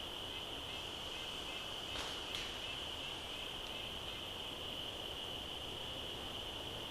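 Crickets chirring steadily in a high, even drone. About two seconds in, two sharp clicks come close together.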